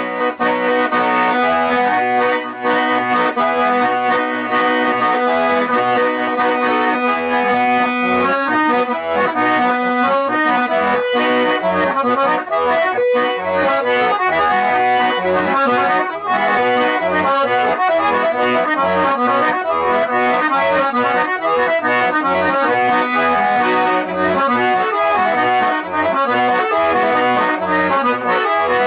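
Accordion playing an instrumental folk tune, held chords over a steady rhythmic bass; it starts abruptly after a brief silence.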